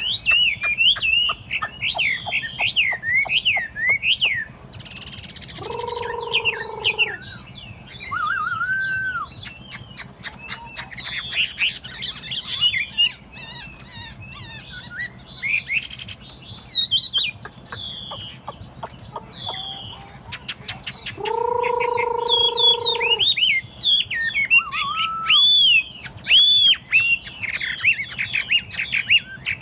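A Chinese hwamei (melodious laughingthrush) singing a long, loud, varied song of quick whistled phrases, slurs and trills. Twice, a steady low honk about a second and a half long sounds under it.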